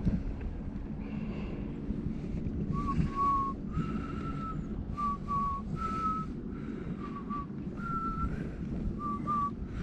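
A person whistling a simple tune of short and long notes, starting about three seconds in, over the low hum and rumble of a mobility scooter driving along.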